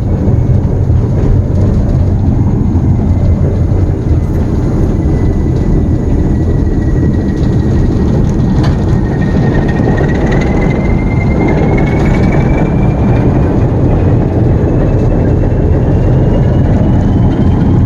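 Diesel locomotive running at a steady speed: a loud, continuous low rumble, with a thin whine that slowly rises in pitch from about halfway through.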